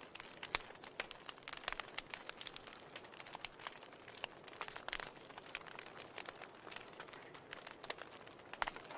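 Wood fire crackling and popping: a steady soft hiss with many small, irregular pops and snaps, several a second.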